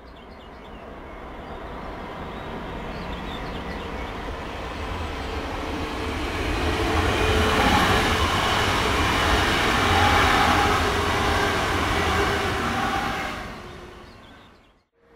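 Electric multiple-unit passenger train running past on the main line. It grows louder as it approaches, is loudest for several seconds as the cars go by, then dies away quickly near the end.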